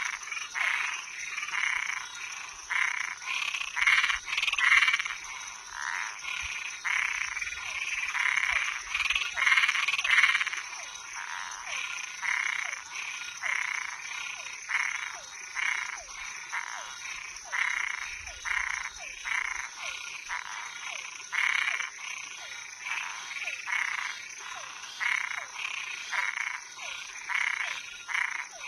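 A night chorus of frogs and tree frogs calling, with short calls repeated about twice a second. Under it runs a steady high-pitched buzz.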